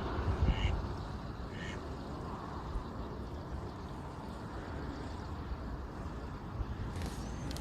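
Ducks quacking, a couple of short calls about a second apart in the first two seconds, over a steady low rumble of wind or distant traffic.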